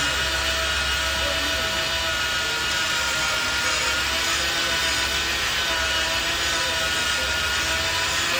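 Power drill running steadily, boring into a steel truck chassis, with a constant whine of several steady tones over grinding noise.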